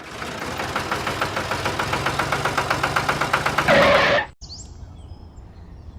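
A small engine or motor running with a fast, even pulse for about four seconds, briefly louder just before it cuts off abruptly. Faint bird chirps follow in the quieter background.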